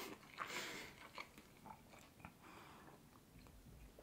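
Faint mouth sounds of someone chewing a doughnut, with a few soft clicks.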